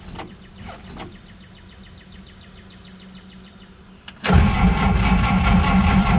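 The starter of a 1950 Oldsmobile's flathead six cranks the engine about four seconds in, turning it over without catching. The fuel sediment bowl is empty, so no fuel is reaching the carburetor.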